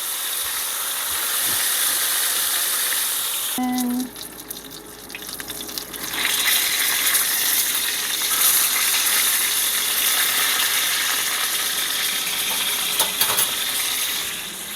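Chicken breast pieces sizzling as they fry in hot oil in a pan. The sizzle dips for a couple of seconds about four seconds in, then comes back strong.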